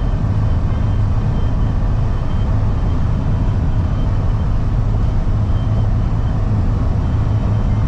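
Steady low drone of a box truck driving at highway speed, heard from inside the cab: engine and road noise with no change in pitch or level.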